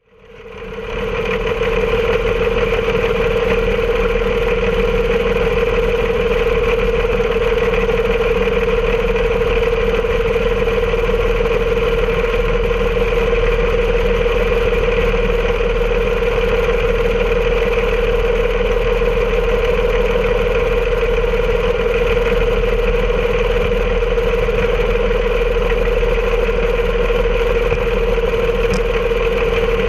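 Railroad train running steadily: an even mechanical drone with a strong steady hum over a rumble, fading in over the first second.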